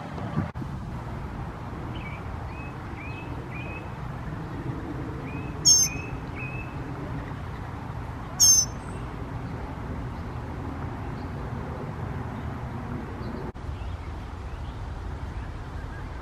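Bird calls: a run of faint, short chirps, then two loud, short, high-pitched calls about three seconds apart, over a steady low outdoor background rumble.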